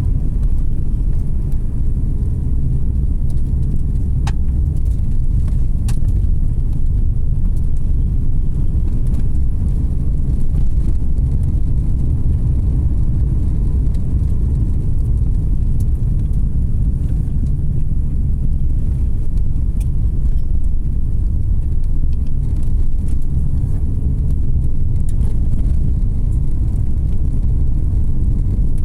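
Car driving along a road: a steady low rumble of tyre and engine noise. Two faint clicks come about four and six seconds in.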